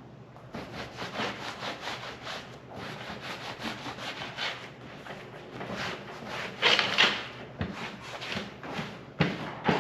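Shoe-cream conditioner being rubbed into a leather jacket sleeve in quick back-and-forth strokes, about three a second, swelling louder about seven seconds in. There are two sharp knocks near the end.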